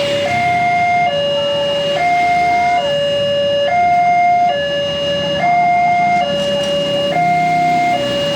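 Railway level-crossing warning alarm sounding a two-tone hi-lo signal, alternating evenly between two notes, each held a little under a second, the signal that the barriers are down for an approaching train.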